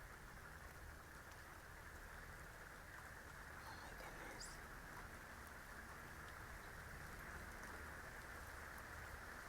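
Faint, steady rain, heard as an even hiss. A short, high chirp comes about four seconds in.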